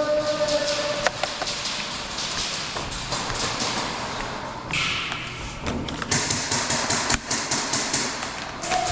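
Airsoft gunfire: rapid bursts of shots and BBs cracking against hard surfaces, dense from about six seconds in.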